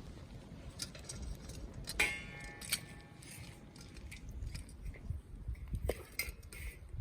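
Scattered metal clinks and clicks; about two seconds in, one clink rings on briefly.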